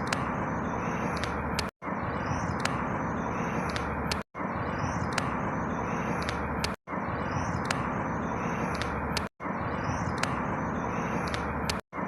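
Outdoor ambience of a steady rushing noise with faint bird chirps above it. It is a short recording looped about every two and a half seconds, cutting out for an instant at each repeat.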